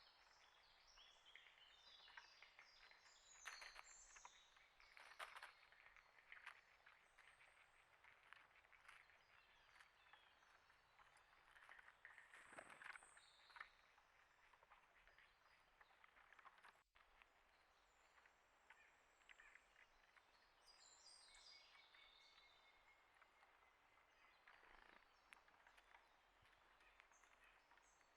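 Faint outdoor ambience with scattered small-bird chirps and twitters in short clusters, and occasional light taps.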